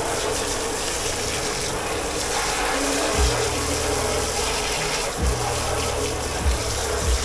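Steady rush of running water, with a few dull knocks and music with a bass line behind it.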